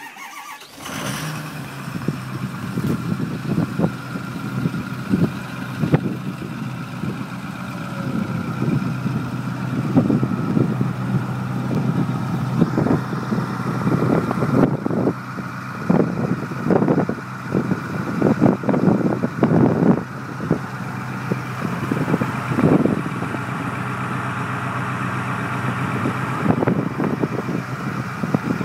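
A 6.4L Power Stroke twin-turbo V8 diesel with a 4-inch straight-pipe exhaust, cold-started in 11-degree weather. It fires right at the start with a short rising flare, then settles into a loud idle, with many uneven loud pulses through the middle.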